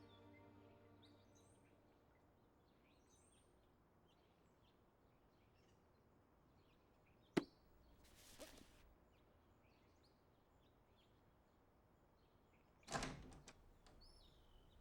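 Quiet outdoor ambience with faint, scattered bird chirps as the music fades out at the start. A single sharp click comes about seven seconds in, followed by a brief hiss, and a louder thud near the end.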